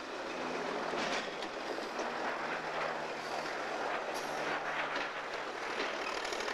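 USAF switcher locomotive Engine 4040 and coal hopper cars rolling along the track: a steady rumble under a low engine drone, with a few sharp clicks of wheels over the rail.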